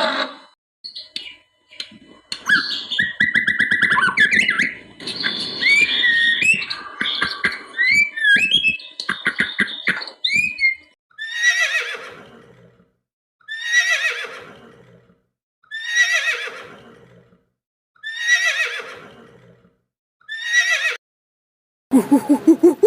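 Horse whinnying: a jumble of high squealing calls over the first half, then about five separate neighs, each falling in pitch, spaced about two seconds apart.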